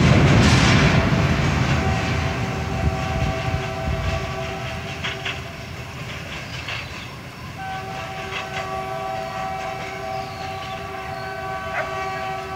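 Freight train wagons rolling away over a steel railway bridge, their rumble and wheel clatter fading. A long, steady, distant warning tone sounds from about two seconds in, breaks off briefly, and comes back around the middle.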